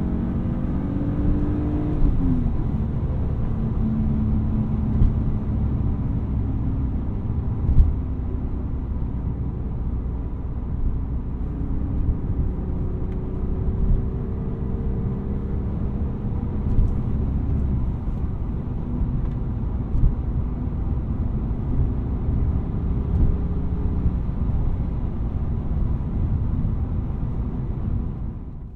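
1999 BMW E36 M3's S52 straight-six running under way, heard from inside the car over steady tyre and road noise. The engine note climbs, drops quickly about two seconds in, then holds steady with a slow rise, with a few short thumps from the road.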